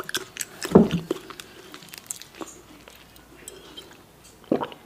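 Close-miked chewing and wet mouth sounds of a person eating spicy instant ramen noodles, with many small clicks and a louder mouth sound about a second in. Near the end a short louder gulp as water is drunk.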